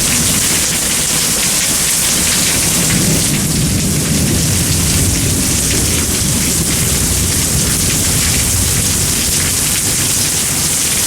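Heavy rain pouring steadily, with a low rumble of thunder a few seconds in.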